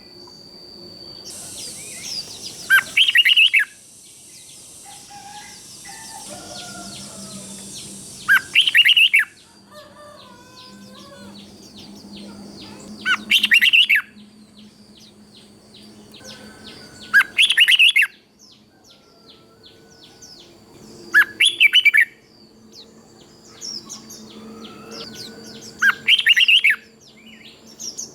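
Red-whiskered bulbul singing: six short, loud song phrases, about every four to five seconds, with softer chirps and a faint steady high tone between them.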